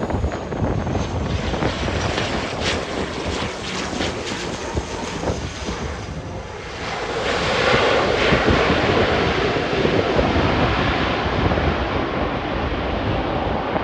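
Airliner engines heard through strong wind buffeting the microphone; the engine noise swells about halfway through and stays loud.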